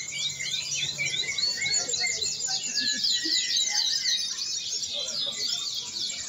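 Many domestic canaries singing at once, a dense, continuous chorus of rapid chirps and trills.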